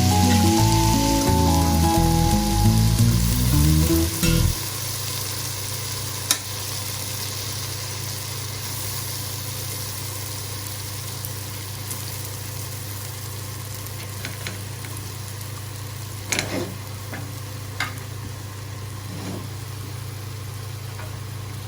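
Background music for about the first four seconds, then food sizzling in a cooking pot over a steady low hum, with a few sharp knocks of a utensil against the pot.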